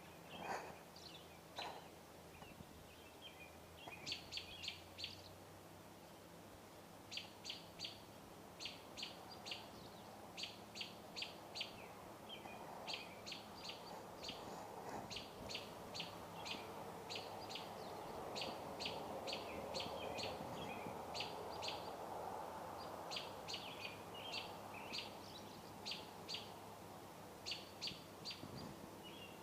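Birds calling: short, sharp chirps in quick clusters of three to five, about one cluster a second, over a soft low rumble that swells in the middle.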